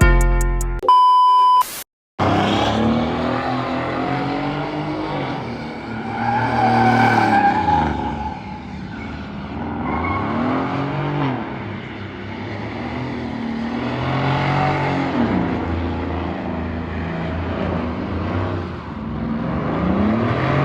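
A car engine revving up and down over and over, its pitch rising and falling every few seconds, with tyre squeal, as a car spinning donuts or sliding would sound. A short electronic beep comes first, about a second in, before the engine sound starts.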